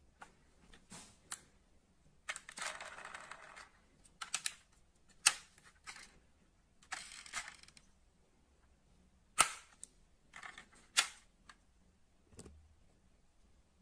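Die-cast metal model cars being handled: irregular sharp clicks and taps, with two brief scraping rustles, one about two seconds in and one about seven seconds in.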